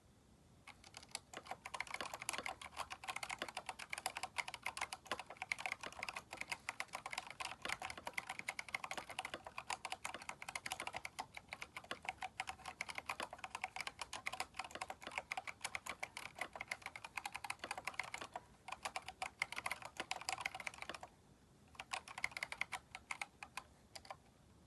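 Fast continuous typing on a Keychron K4 mechanical keyboard fitted with replacement keycaps, a rapid clatter of key presses. Typing pauses briefly near the end, resumes for a few seconds, then stops.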